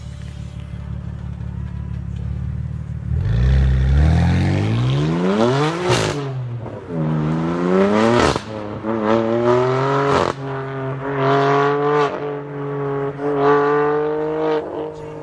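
BMW M4's twin-turbo straight-six running low and steady, then accelerating hard from about three seconds in, its note climbing and dropping back sharply at each of several upshifts.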